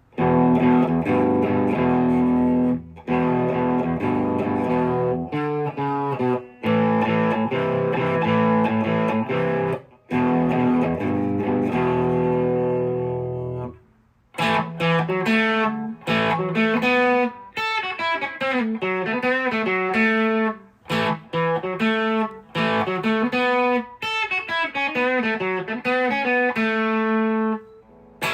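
Gretsch electric guitar on its bridge pickup, played through a close-miked amplifier. For about the first fourteen seconds it plays held chords with short breaks between them, then single-note lead lines with bends and slides.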